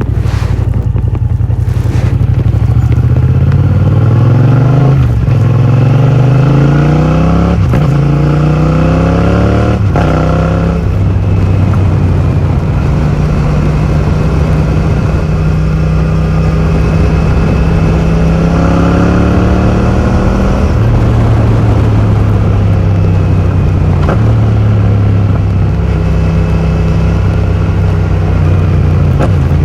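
Yamaha MT-07 parallel-twin engine through an Akrapovic full titanium exhaust, accelerating hard through the gears with upshifts about five, seven and a half and ten seconds in. It then holds a steadier cruise before pulling up through the gears again later on.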